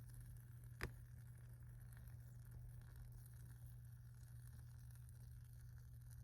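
Wood fire crackling faintly, with one sharp pop a little under a second in.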